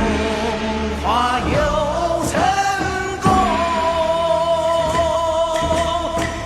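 Chinese pop song with singing over band accompaniment, the melody ending in one long held note from about three seconds in.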